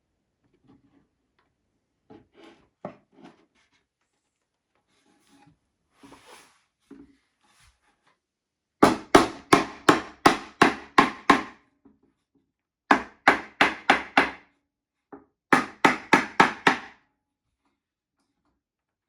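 Hammer tapping on wooden furniture in three quick runs of sharp strikes, about four a second, after a few faint knocks of handling.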